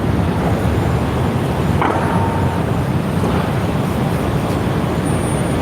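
Low, steady rumble of street traffic, with a motor vehicle running close by.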